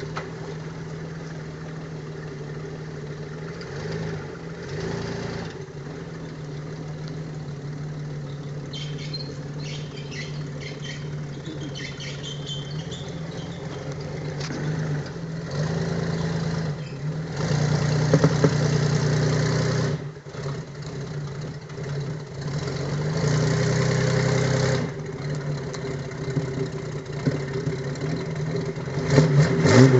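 Homemade tractor's engine running while it is driven, with several louder throttle-up stretches of a few seconds each about halfway and two-thirds through. It turns louder and more uneven near the end.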